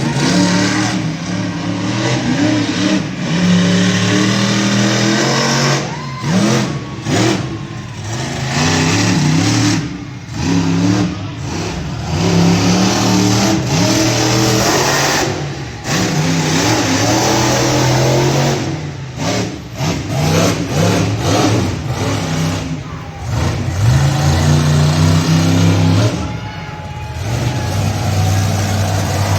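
Monster truck engine revving hard, its pitch climbing and falling again and again as the throttle is worked, with several short drops where the throttle is lifted.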